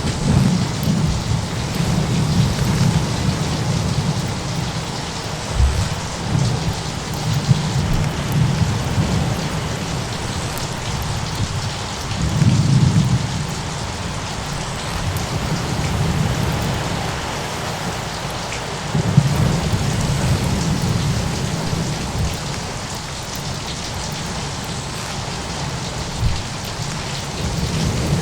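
Thunderstorm ambience: steady heavy rain with low rolling thunder that swells several times, most strongly about twelve seconds in and again around twenty seconds. A few short sharp cracks stand out above the rain.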